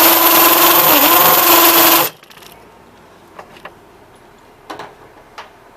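Electric drill running at full speed while drilling a new mounting hole for the compressor, its pitch dipping briefly about a second in as the bit loads up, then stopping about two seconds in. A few light clicks and knocks follow.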